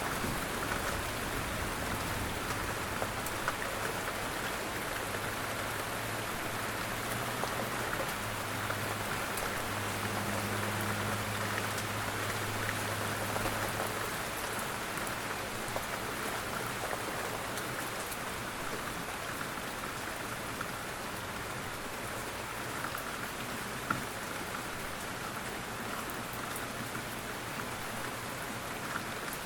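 Steady rain falling, an even hiss with scattered small drop ticks. A low hum sits underneath during the first half and stops about halfway through.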